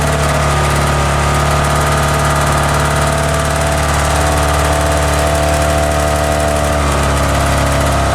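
Burnout car's engine running at a steady speed, a constant drone with no revving, its lowest tones shifting slightly about seven seconds in.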